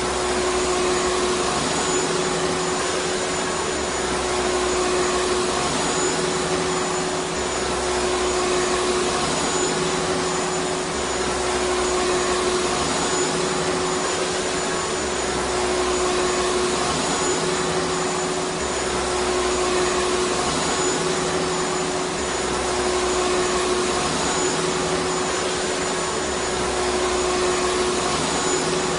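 Vacuum cleaner running continuously: a steady rushing whir of air with a constant motor hum, and a faint low pulsing every couple of seconds.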